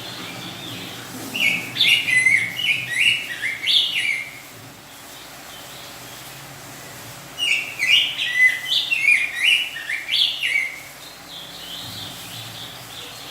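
Male black-backed grosbeak (rey del bosque) singing in breeding condition, in full song. It gives two loud phrases of rich, quickly changing whistled notes, each about three seconds long. The first starts about a second in and the second about seven seconds in, with softer notes around them.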